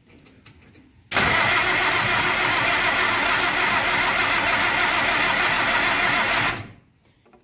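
Willys CJ2A Jeep's four-cylinder flathead engine cranked on the starter for about five seconds without catching, then cut off suddenly. It coughs back through the intake, blowing smoke, a sign that fuel delivery from the freshly fitted carburetor is not yet dialed in.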